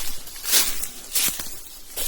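A hiker's footsteps on a forest trail: three short scuffing steps at an even walking pace.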